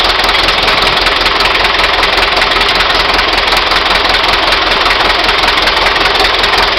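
T-100MZ crawler tractor's engine running steadily at a constant speed with an even low beat.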